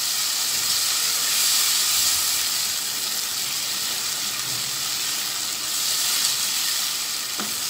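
Potatoes and tomatoes in a spiced onion masala sizzling in a frying pan while being stirred with a spatula: a steady frying hiss, with a little water just added to the masala.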